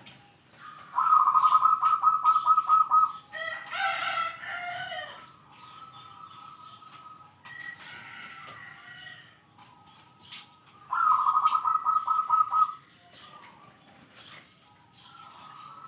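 Zebra dove (perkutut) singing two long phrases of rapid, evenly spaced cooing notes, about five a second, each lasting about two seconds. In between them a chicken calls once, briefly.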